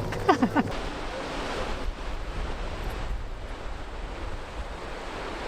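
A brief falling voice-like sound at the very start, then a steady rush of wind on the microphone mixed with the wash of ocean surf.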